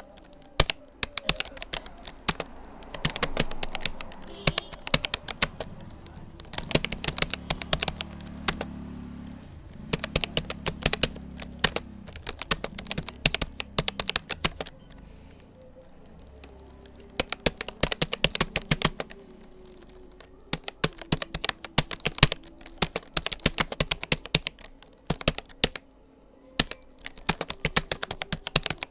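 Typing on a Rapoo computer keyboard: rapid, uneven key clicks in bursts, with short pauses between runs of words.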